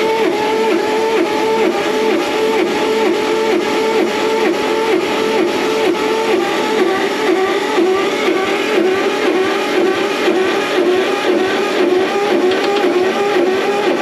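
The starter cranking the skid steer's Wisconsin 30 HP engine, a steady whine that dips in an even rhythm as the engine turns over. The engine does not fire.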